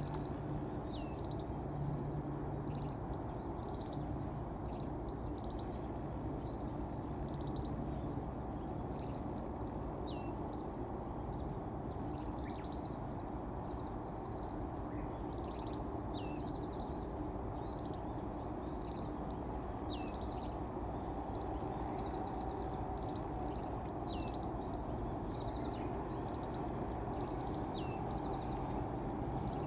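Small birds chirping with many short, high call notes scattered throughout, and a thin held whistle a few seconds in, over a steady low background rumble.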